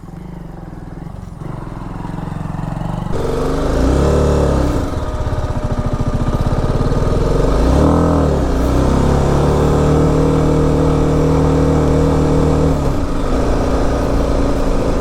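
BMW G 310 RR's single-cylinder engine pulling under load up a steep climb. The revs rise about three seconds in and climb to a peak around eight seconds. They then fall back and hold steady before dropping near the end.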